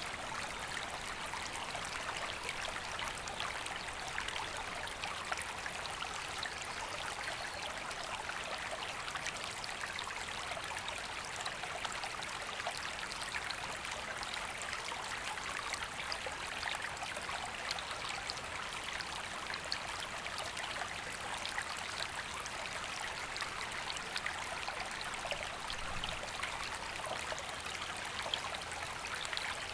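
Woodland river running over stones, a steady rushing and trickling flow.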